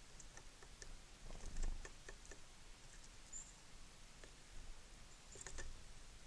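Small birds at a seed feeder: scattered light taps and clicks of pecking and shuffling, with a soft thump about one and a half seconds in and one brief high chirp a little after three seconds.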